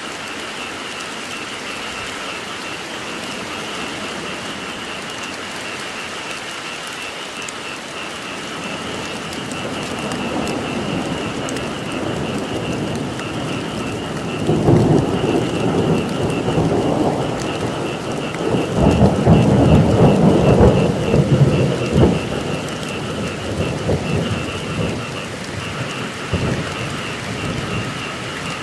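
Steady rain with a rolling thunder rumble that builds about a third of the way in, is loudest about two-thirds in, then fades. Over the rain runs a steady, high, pulsing chorus of croaking frogs.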